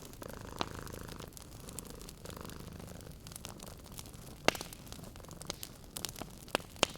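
Wood fire crackling in a fireplace: scattered sharp pops and snaps over a steady hiss, the loudest pop about halfway through and two more close together near the end. A cat's soft purring runs low underneath.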